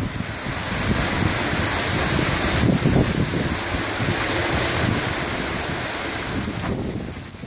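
Strong wind rushing and buffeting the microphone, a steady hiss with uneven low rumbles, fading near the end.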